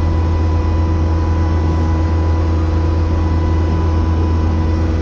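Skid steer engine running steadily at full throttle, a constant low drone with a steady whine over it.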